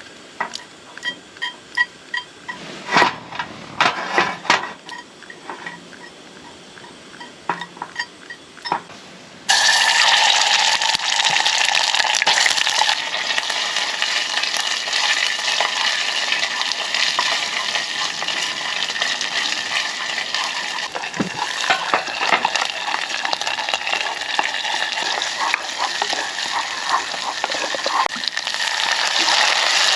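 Light clicks and taps, then about a third of the way in food hits a hot pan and starts sizzling loudly, frying steadily with occasional knocks of a utensil against the pan.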